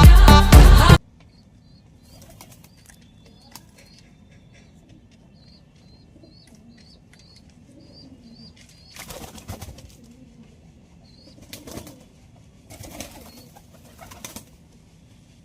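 Dance-pop music cuts off abruptly about a second in. After that come faint, quick high chirps repeating for several seconds, then pigeons flapping their wings in three short bouts.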